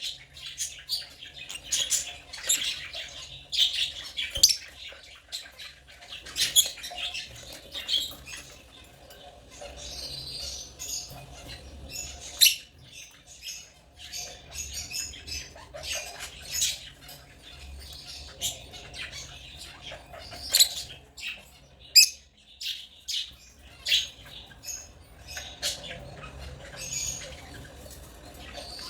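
African lovebirds chirping: many short, sharp, high-pitched calls in an irregular, overlapping chatter.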